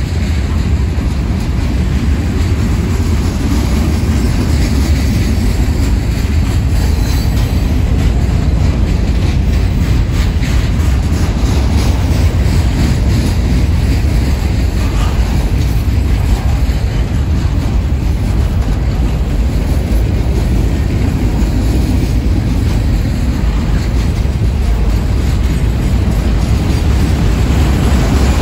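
Freight cars of a long train (covered hoppers, a tank car and boxcars) rolling past close by: a loud, steady rumble of steel wheels on the rails with faint clicks through it.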